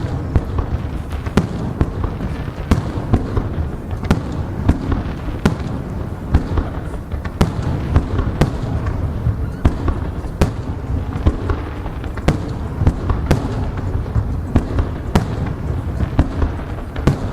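Aerial firework shells bursting in a dense barrage during a fireworks finale: sharp bangs several times a second over a continuous low rumble.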